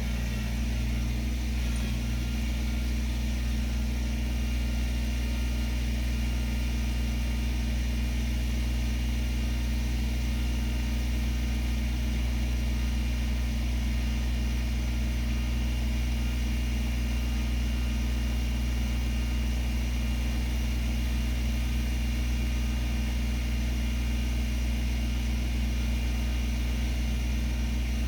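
An engine idling steadily, a constant low hum that does not rev or change.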